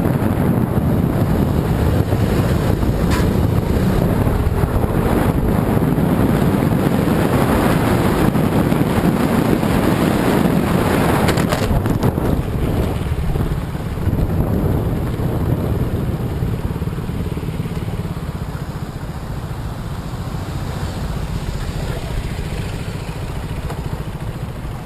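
Moving vehicle: a loud, steady rumble of engine and road noise that slowly eases over the second half, with a couple of faint brief knocks.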